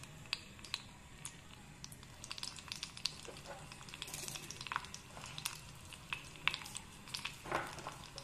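Dried red chilli pieces frying in a little hot ghee in an aluminium pot: a faint sizzle with many small scattered crackles and pops.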